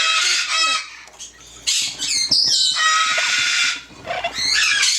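Yellow-naped Amazon parrot squawking loudly in three harsh, drawn-out bouts; the long middle one has swooping pitch glides.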